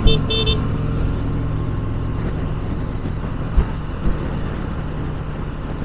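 Honda CB500X parallel-twin engine running steadily, with a few short high beeps right at the start and a brief thump about three and a half seconds in.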